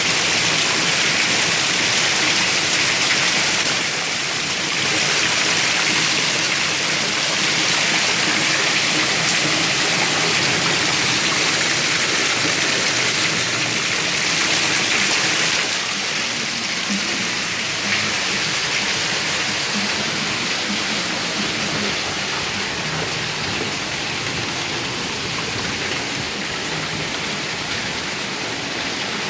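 Rain falling in a steady, even hiss, easing slightly about halfway through.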